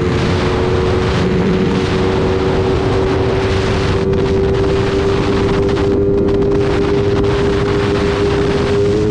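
Single-cylinder motorcycle engine running hard at speed, its note holding steady and creeping slightly higher, under heavy wind rush on the microphone.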